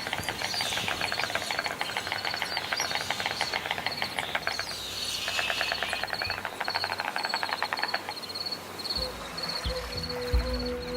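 White storks bill-clattering: runs of rapid wooden clicking in bursts with short breaks, under a high chirp repeating a few times a second. Music comes in near the end.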